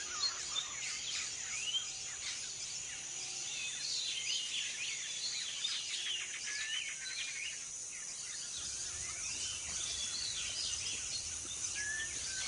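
Rainforest ambience: a steady high insect drone with many birds chirping and whistling over it.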